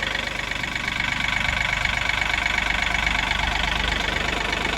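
John Deere 3038E compact tractor's three-cylinder diesel engine running steadily at low speed, with an even, rapid firing pulse.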